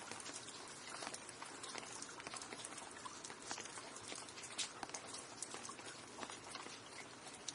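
Steady rain with many close, distinct drops pattering and ticking on a hard surface.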